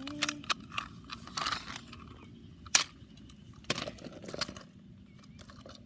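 Toy monster truck clattering over rocks: scattered plastic clicks, knocks and scrapes, with one sharp knock about halfway through.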